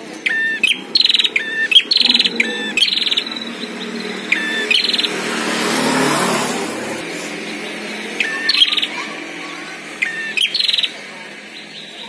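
Prenjak (prinia) calling in short, sharp, rapidly pulsed chirp bursts: several in quick succession at the start, then more toward the end. A broad rush of noise swells and fades in the middle.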